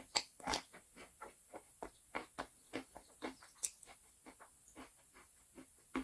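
Chalk being chewed close to the microphone: a run of short, crisp crunches, two or three a second, the loudest just after the start.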